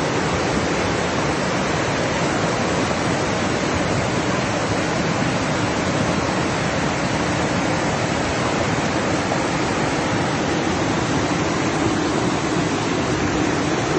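Fast-flowing floodwater rushing, a loud, steady, unbroken sound.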